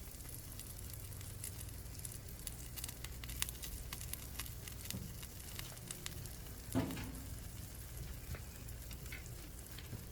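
Butter and a cheese-filled flour tortilla sizzling quietly in a hot pan, with scattered faint crackles. A single brief knock about two-thirds of the way through.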